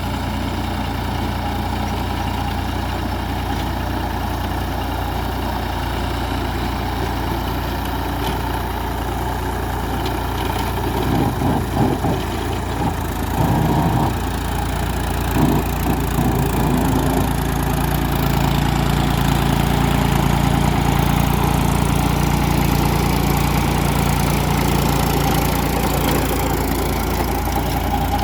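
Tractor engine running steadily, with a stretch of uneven, louder sound about eleven to sixteen seconds in, after which the engine runs louder and steadier.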